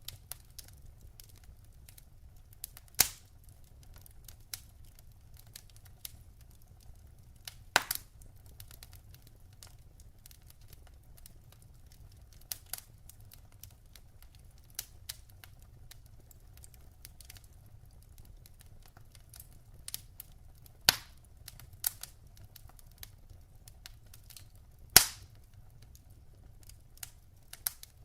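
Logs burning in a fireplace: a steady stream of small crackles with four loud pops, about three, eight, twenty-one and twenty-five seconds in, over a faint low rumble of the fire.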